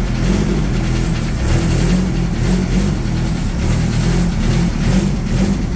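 Air-cooled 1600cc Volkswagen flat-four in a dune buggy running unevenly just after a cold start, still needing the throttle to keep it going. The owner takes the rough running for a sign that the carburetor needs rebuilding.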